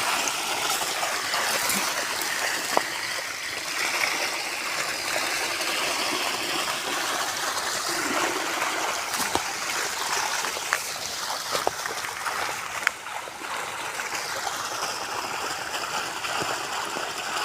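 River water flowing steadily, with a few brief sharp knocks or splashes scattered through it.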